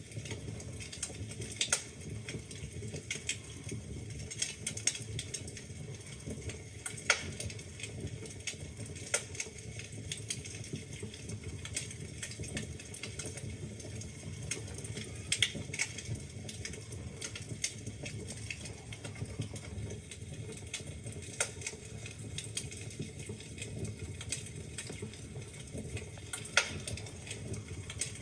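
Wood fire burning in a fireplace: a steady low rumble of flames under constant small crackles, with an occasional louder pop of a log.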